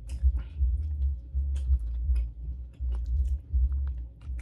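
Close-miked eating: wet chewing and sticky clicks of fingers pinching up fufu and egusi soup. Under it runs a low, irregular bass thudding, from a neighbour's loud music.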